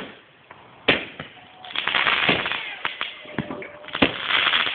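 Fireworks going off: a sharp bang about a second in and another near the end, with a spell of dense crackling and smaller pops between them.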